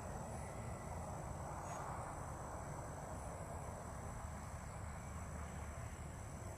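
Outdoor ambience: a steady high-pitched insect drone over a low, even rumble, with no distinct events.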